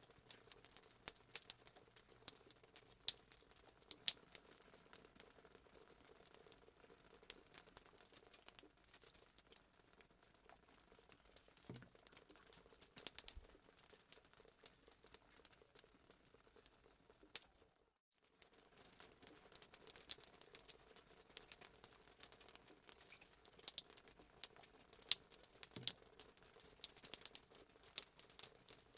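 Fireplace sound effect: a wood fire crackling and popping faintly, with irregular sharp snaps over a soft hiss. The sound cuts out for a moment about two-thirds of the way through, then resumes.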